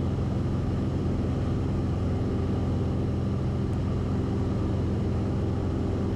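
Cessna 172RG's four-cylinder Lycoming engine and propeller droning steadily at climb power, heard inside the cabin.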